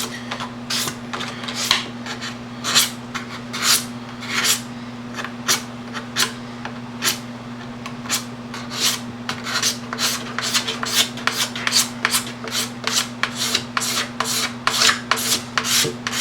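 Knife blade scraping the surface of a plastic motocross gas tank in short repeated strokes, shaving off the faded top layer of plastic. The strokes are irregular at first and quicken to about three a second later on, over a steady low hum.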